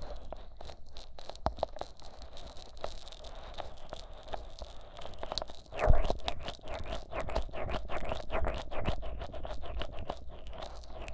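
Fingers coated in thick Vaseline rubbing and pressing on the silicone ears of a 3Dio binaural microphone: a run of sticky crackles and clicks, growing denser about halfway through, with one loud thump at about the midpoint.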